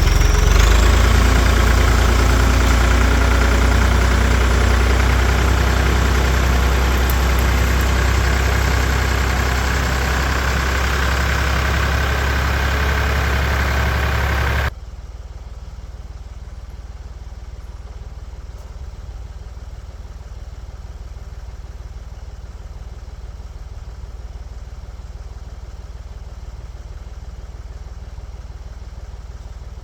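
Lawn tractor engine running steadily while towing a stalled lawn tractor backward on a strap, with a faint high whine slowly rising in pitch. About halfway through the sound drops abruptly to a quieter, steady engine running.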